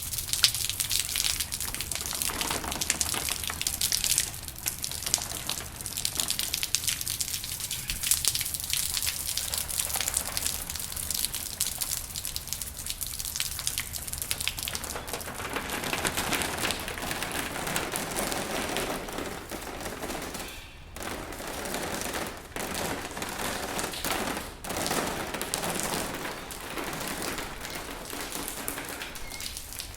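Rain falling: a dense, continuous patter of drops. It grows fuller and lower about halfway through, with a few brief lulls later on.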